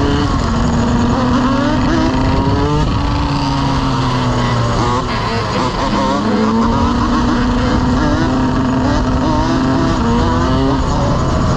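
Motorcycle engines running, their pitch rising and falling repeatedly as they rev.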